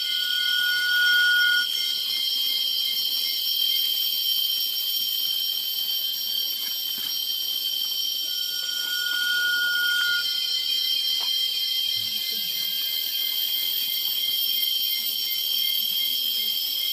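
Bird calls: a long, steady whistled note, heard twice, over a constant high-pitched ringing chorus.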